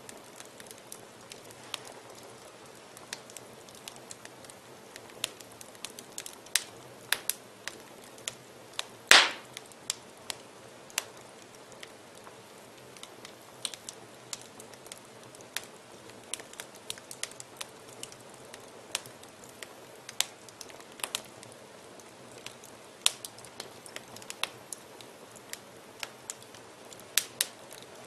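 Wood fire crackling in a fireplace: irregular sharp snaps and pops over a soft steady hiss, with one much louder pop about nine seconds in.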